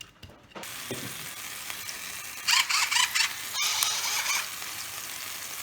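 Peppers frying in olive oil in a pan: a steady sizzle sets in about half a second in, with two louder bursts of stirring near the middle.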